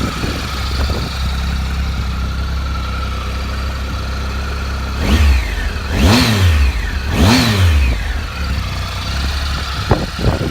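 Triumph Tiger Explorer XRX's 1215 cc three-cylinder engine idling, then revved three times in quick succession about halfway, each rev rising and falling back, with a couple of short throttle blips near the end.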